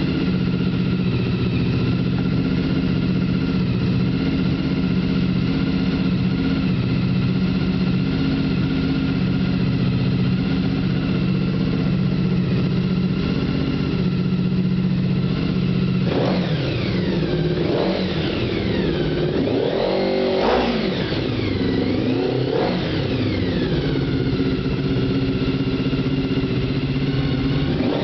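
Honda VFR750's V4 engine through a custom exhaust, idling steadily. From about halfway through, the throttle is blipped several times, each rev rising sharply and falling back to idle.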